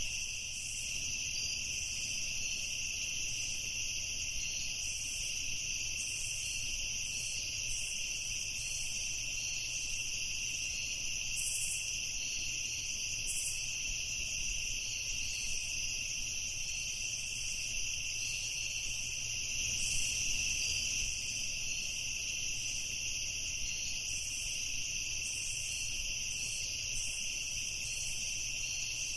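Night chorus of crickets and other insects: a steady, high-pitched trilling, with a higher insect call coming and going above it.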